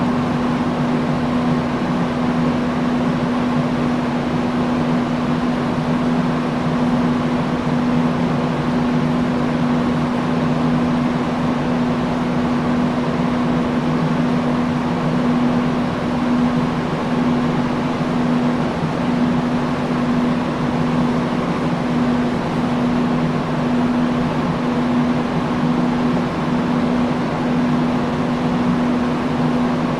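Industrial fan running steadily: a whoosh of moving air over a constant low motor hum.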